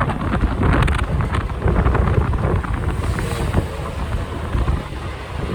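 Gusty wind rumbling and buffeting against the microphone of a motorcycle riding at speed through typhoon wind, rising and falling in loudness.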